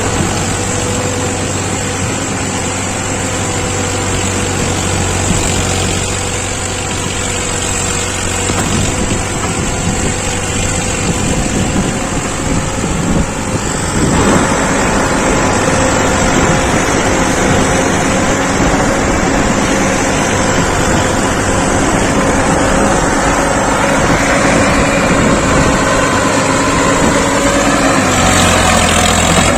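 Heavy diesel engine running steadily under load. About halfway through its note shifts slightly upward, and near the end the revs drop away.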